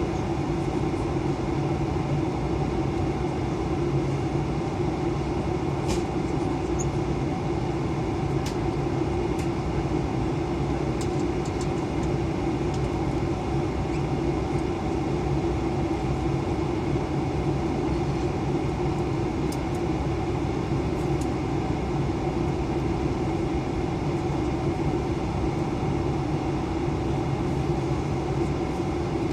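Airbus A320 engines and airflow in a steady, even drone, as heard inside the passenger cabin, with a few faint clicks.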